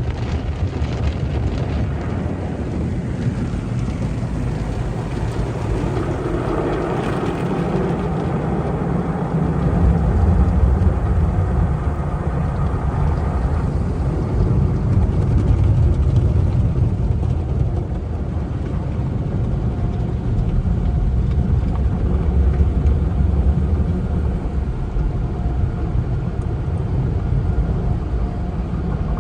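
Automatic car wash machinery running: a steady low rumble with noisy hiss above, swelling and easing a few times.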